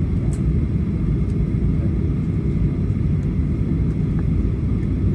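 Steady low rumble of an airliner's engines and air systems heard inside the passenger cabin, with a few faint clicks.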